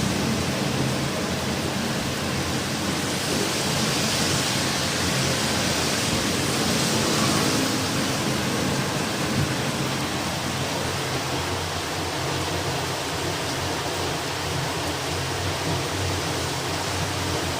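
Heavy rain and strong gusting wind making a steady rushing noise, with a gust swelling about four seconds in.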